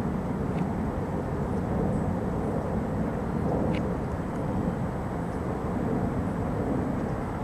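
Steady low rumble of a distant jet airliner's engines passing high overhead, with two faint short high ticks, about half a second in and near the middle.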